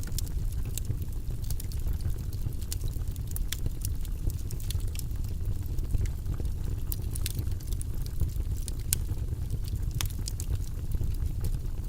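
Burning logs in a fireplace crackling: frequent sharp, irregular pops over a steady low rumble of the fire.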